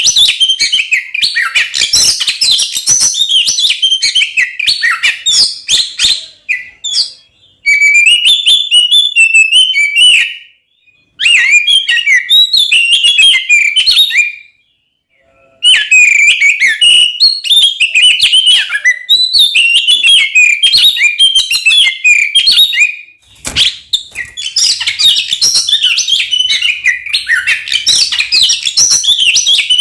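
Oriental magpie-robin (kacer) singing loudly in the fast, aggressive fighting style: a dense, rapidly changing stream of whistles and chattering notes. It breaks off twice briefly, about 11 and 15 seconds in.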